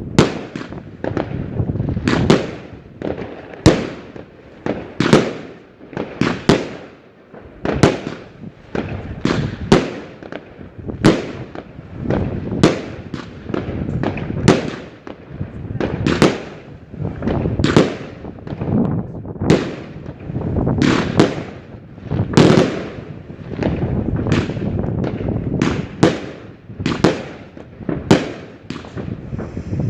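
Fireworks display: a rapid, irregular run of shell bursts and bangs, often more than one a second, each with a booming echo trailing after it.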